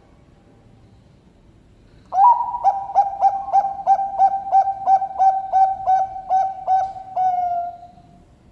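Bangkok-strain perkutut (zebra dove) singing its thick-voiced song, starting about two seconds in: a rapid run of about a dozen low cooing notes at a bit over two a second, closing with a drawn-out note that falls away.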